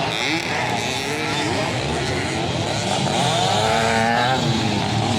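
Several dirt-bike engines revving during a race, their pitches rising and falling over one another.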